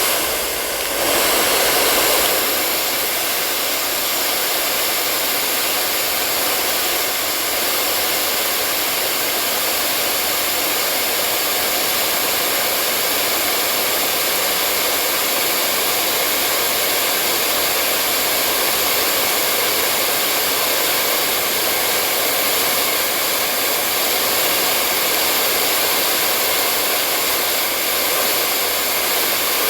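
Hair dryer running steadily: an even rushing blow of air with a faint whine from its motor, shifting briefly about a second in.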